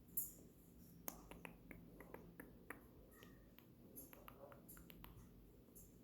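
Faint, scattered soft clicks, about a dozen over several seconds, from a green-cheeked conure's beak nibbling and pecking gently at skin.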